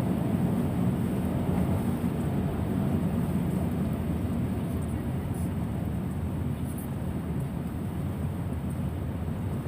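Steady low rumble of a car driving on a rain-soaked road: tyre and road noise with no sharp events.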